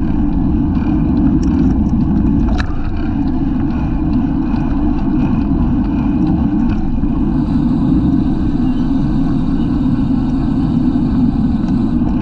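Steady wind rumble buffeting the microphone of a bicycle-mounted action camera while riding at speed, with faint ticks and one sharper click about two and a half seconds in.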